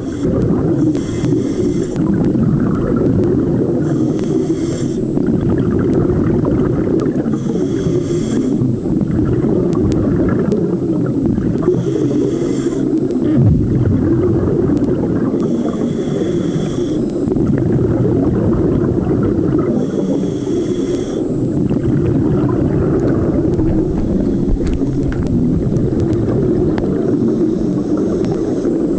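Scuba diver's regulator breathing underwater: a short hiss about every four seconds over a constant muffled rumble.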